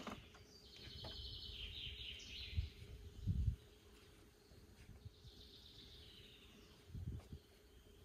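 A small bird singing: a high trilled phrase about two seconds long, then a shorter phrase a few seconds later. A few low thumps, the loudest sounds, come about a third of the way in and again near the end.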